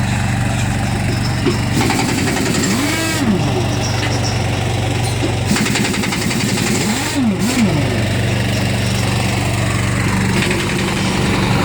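Truck engine idling steadily, with a few short rising-and-falling pitch sweeps over it.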